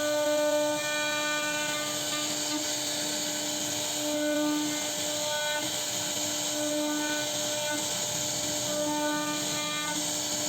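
CNC router spindle running as it carves wood, a steady high whine over the hiss of the cutting bit, its upper tones swelling and fading as the cutting load changes.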